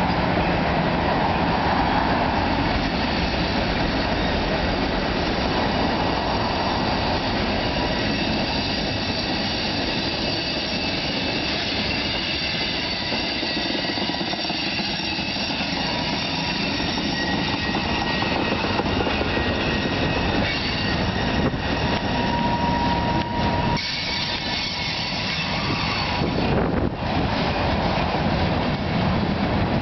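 Loaded freight cars of a long CSX train rolling past close by: a steady rumble and clatter of steel wheels on rail, with thin high wheel-squeal tones coming and going.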